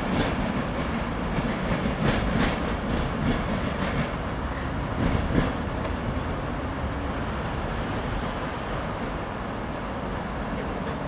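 Class 390 Pendolino electric train running away over station pointwork. Its wheels click over rail joints and crossings during the first half, then leave a steady rumble that slowly fades as the train recedes.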